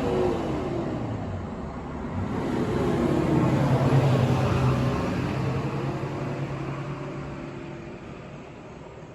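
Motor vehicles passing on a road: one engine drops in pitch as it goes by, then another swells up to its loudest about four seconds in and slowly fades away.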